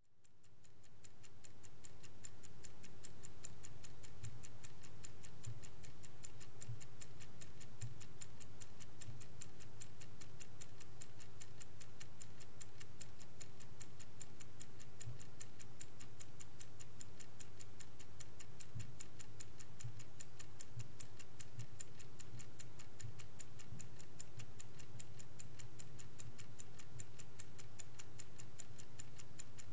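Vintage Swiss-made Angelus clock ticking evenly, several quick ticks a second, fading in over the first few seconds, over a faint steady hum.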